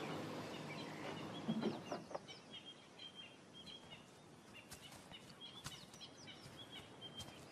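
Faint bird chirps: short calls repeated again and again, with a few quick rising notes, over a low steady noise that fades out about two seconds in.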